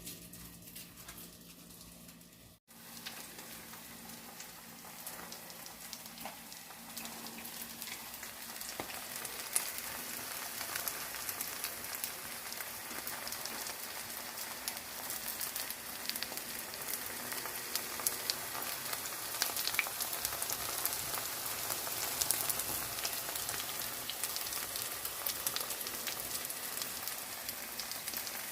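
Chive pancake batter frying in oil in a pan: a steady sizzle full of small crackling pops. It starts after a sharp break about two and a half seconds in and grows a little louder.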